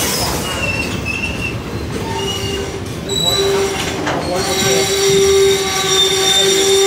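Container freight train's flat wagons rolling slowly past with a rumble, the wheels giving a steady high-pitched metal squeal that grows louder from about four seconds in.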